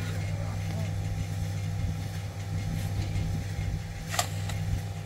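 A steady low engine hum, like an engine idling, with one sharp click about four seconds in.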